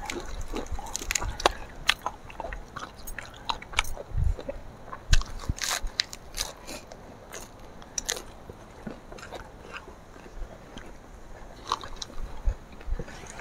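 Two people chewing and crunching food eaten by hand, with irregular sharp crackles and clicks, more frequent in the first half.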